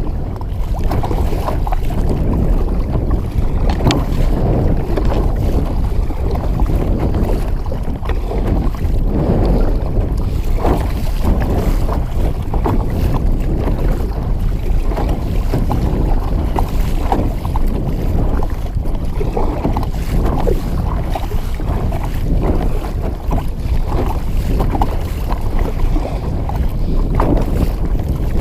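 Gusty wind buffeting the microphone, with water splashing and slapping irregularly against a kayak in choppy water.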